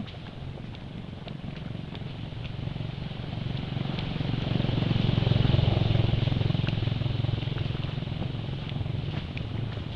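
A motor engine droning steadily, growing louder to about halfway through and then easing off, with faint scattered clicks.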